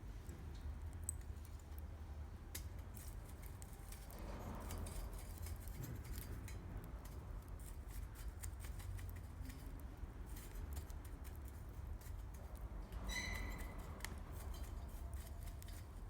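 Wood campfire crackling with scattered sharp pops over a low rumble. About 13 seconds in, a brief high ringing note rises above the crackle.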